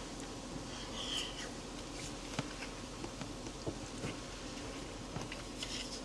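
An insect buzzing, with a few light clicks.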